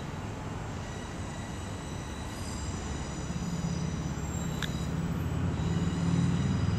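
A train running at the station: a low engine rumble that grows louder from about halfway through, with a faint high whine over it.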